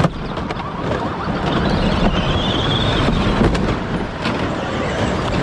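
Racing Power Wheels ride-on car under way: its electric motor whines, rising and falling in pitch, over steady wind and road rumble, with a few sharp knocks.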